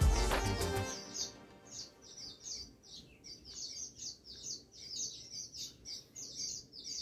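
Background music that stops about a second in, followed by a small bird chirping over and over, several short high chirps a second.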